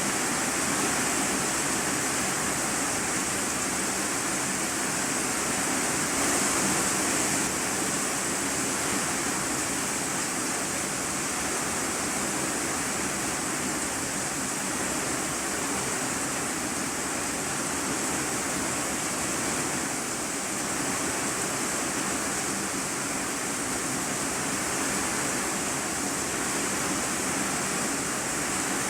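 Heavy rain drumming steadily on a corrugated iron-sheet roof, heard from the room beneath as an unbroken, even hiss.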